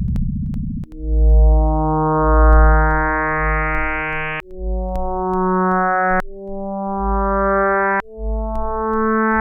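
Electronic synthesizer music. A buzzy low drone gives way about a second in to held synth tones that shift pitch every two to three seconds over deep bass notes, with faint clicks between.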